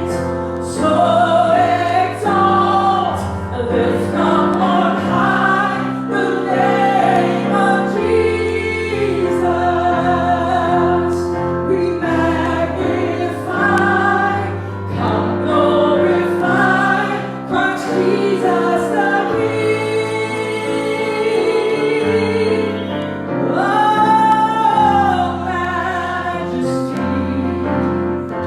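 Congregational worship song: singers with a choir-like blend over a band with steady bass and sustained keyboard chords.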